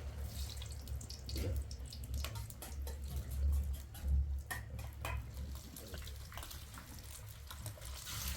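Water running and dripping, with scattered small clicks and knocks, over a low steady rumble.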